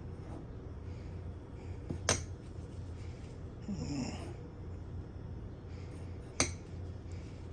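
Salted lemons being packed into a jar: two sharp knocks about four seconds apart, with a brief squeak in between, over a steady low hum.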